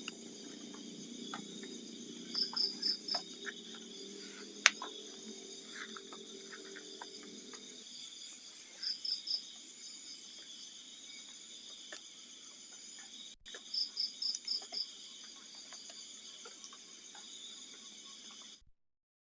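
Crickets and other night insects trilling steadily in high, overlapping tones, with three short runs of four or five quick, higher chirps. The sound cuts off abruptly near the end.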